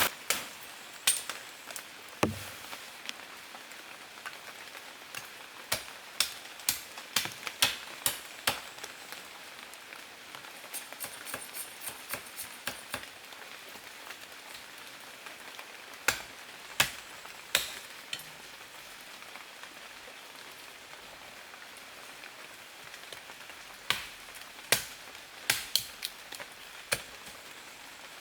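Sharp knocks and cracks of wood being struck and split. They come in irregular clusters of a few a second, with quieter pauses between, over a steady hiss.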